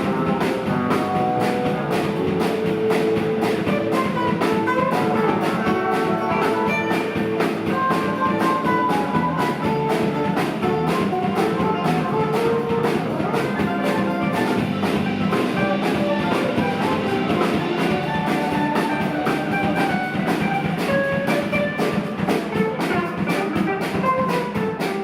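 Live rock band playing an instrumental passage: a lead guitar picks a run of single melodic notes over a steady drum kit beat and bass.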